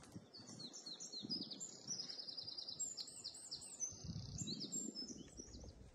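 A songbird singing one long, fast song of high, quickly repeated notes. Faint low rustling comes underneath about a second in and again around four seconds.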